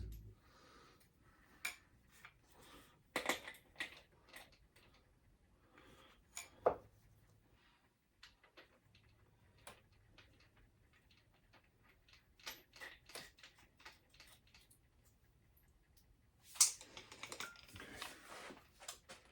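Scattered clicks, knocks and light metal clinks of tools and parts being handled, with a busier stretch of clatter near the end.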